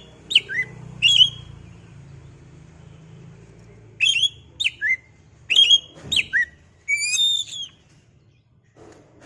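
Oriental magpie-robin (kacer) singing: clear whistled notes, many sliding downward, two or three just after the start, then a run of about six more from about four seconds in until near the end.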